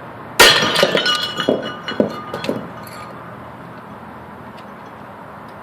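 Porcelain toilet smashed by a heavy rock: a sudden loud crash about half a second in, then shards clattering and clinking, dying away over about two and a half seconds.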